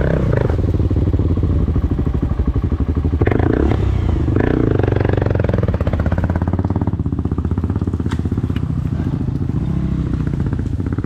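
Motorcycle engine running while riding, a steady low drone.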